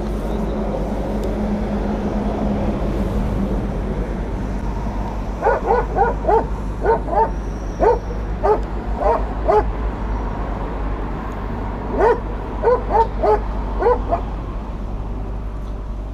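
A security dog barking in two runs of quick, sharp barks: about ten starting roughly a third of the way in, then four or five more near the end. A steady low background noise runs underneath.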